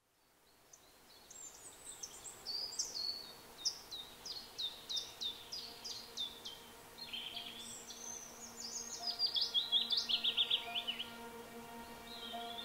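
A songbird singing runs of quick, repeated downslurred high notes: one run through the first half and a faster, denser run in the second half. Faint steady tones sit underneath and grow slightly toward the end, and the sound fades in at the start.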